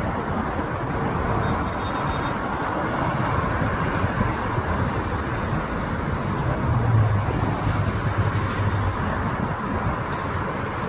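Jet noise from a Learjet 35A's twin Garrett TFE731 turbofans: a steady rushing sound, with a low hum swelling about seven seconds in.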